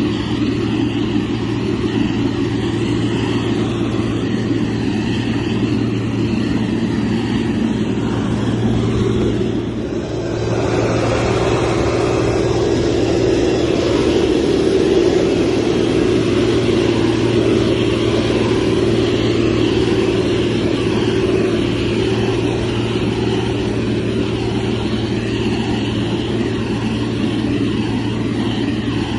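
Motor grader's diesel engine running steadily under working load, with a deep hum. It eases off briefly about ten seconds in, then picks up again.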